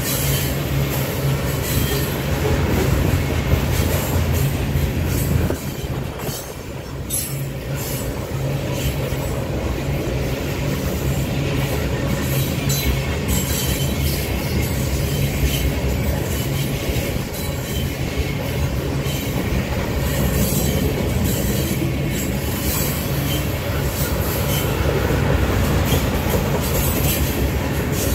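Freight train of tank cars rolling past, a steady rumble of steel wheels on rail with irregular sharp clacks as the trucks pass over the rails. The level dips briefly about six seconds in.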